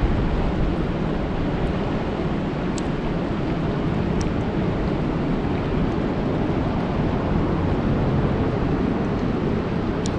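Steady rain falling on a lake: a dense, even rush, heaviest and deepest in the low end, with a few faint sharp drop ticks.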